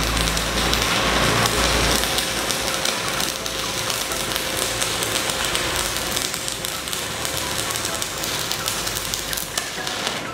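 Stick-welding arc crackling and sizzling steadily as a 4 mm electrode burns at about 180 A on a Jasic Ares 200 inverter welder, with a faint steady hum underneath; the crackle stops near the end.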